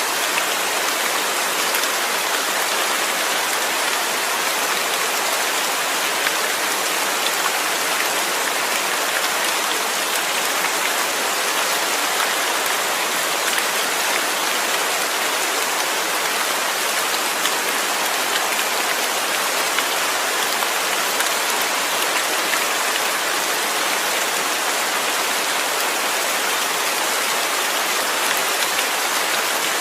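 Steady rain falling: a dense, even hiss of countless drops with fine patter, unchanging throughout.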